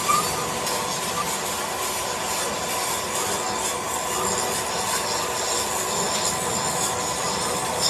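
Steady industrial machinery noise with a constant hum and a faint scraping texture, typical of metal-working machines running on the shop floor.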